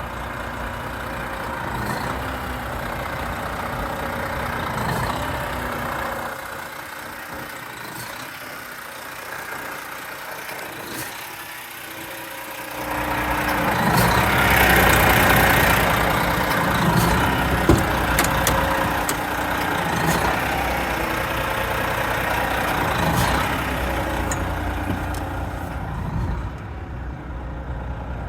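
Volvo FM410 truck's 13-litre straight-six diesel running at idle. The low rumble drops away for a few seconds, then comes back louder with a hiss about halfway through.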